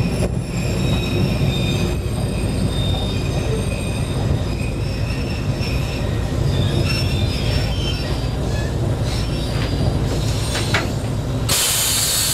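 Arita Railway diesel railcar running slowly out of a station, heard from the cab: a steady low engine and wheel rumble, with high wheel squeal as it takes the curve. A loud burst of hiss comes near the end.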